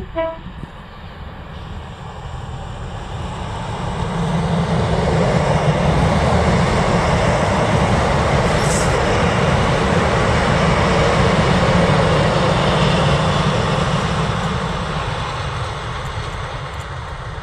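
ScotRail Class 156 Sprinter diesel multiple unit passing close by: the rumble of its diesel engines and its wheels on the rails builds up over the first few seconds, is loudest for several seconds as the carriages go past, then fades as it moves away.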